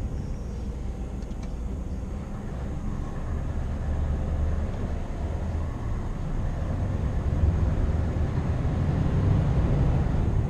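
Scania R520's 16-litre V8 diesel engine pulling the truck along, a steady low drone that grows gradually louder.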